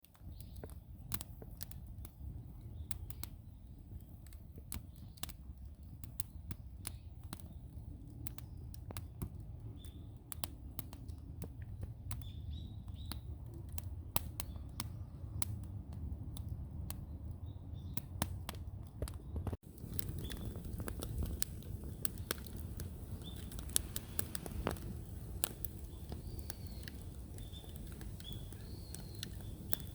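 Wood fire in an irori hearth crackling, with sharp pops at irregular intervals over a low steady rumble. Short bird chirps sound now and then in the background.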